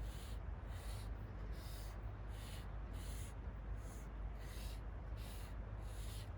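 Felt-tip marker rubbed back and forth on paper in even strokes, about one stroke every 0.7 s, over a steady low rumble.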